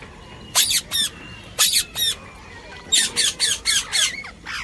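Young pet parrot squawking in short, shrill calls: two in the first second, two more soon after, then a quick run of five near the end.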